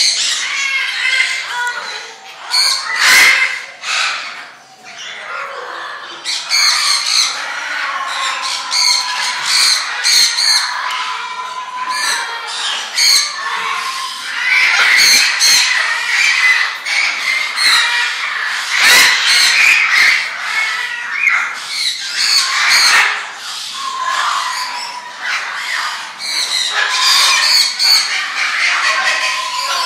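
Many birds squawking and calling over one another without a break, with a few sharp, loud squawks standing out now and then.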